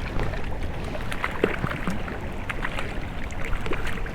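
Creek water running, with a steady low wind rumble on the microphone and scattered short splashes and clicks.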